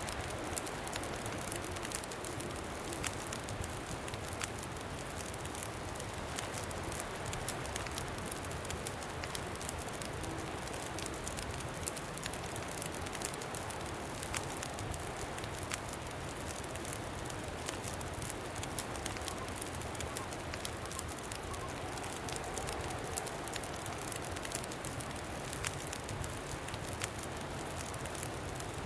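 Campfire crackling, with many small pops spread evenly through a steady rush of wind.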